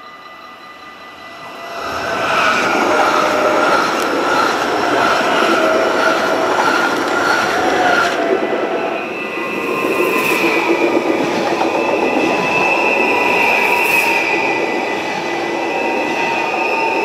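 A Dutch NS electric passenger train passes the level crossing close by, arriving about two seconds in: a loud rush of wheel and running noise with high steady whines and a wheel squeal, and a few sharp clicks over rail joints. Underneath, the crossing's warning bells ring steadily.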